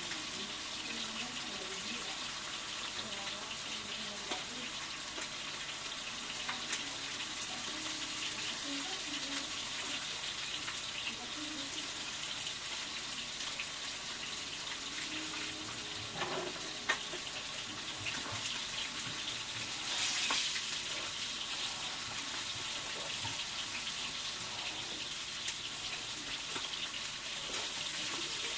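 Food frying in a pan on the fire, a steady sizzle with fine crackling. There is a faint click now and then.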